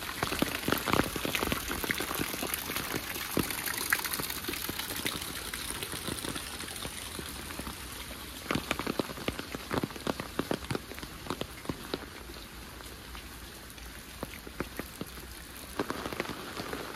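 Steady rain falling, with many sharp separate drops striking close by over an even hiss; the drop hits are densest in the first few seconds and come in another cluster about halfway through.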